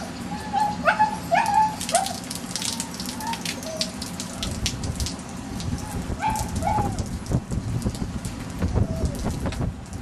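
Kasteliotis puppy whimpering in short high yelps that rise and fall, in a few clusters. Dense crackling clicks run beneath, heaviest in the middle.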